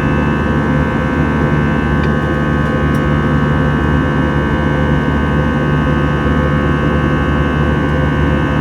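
Steady drone of an Airbus A321's jet engines and airflow heard inside the passenger cabin in flight: an even low rumble with several steady whining tones over it.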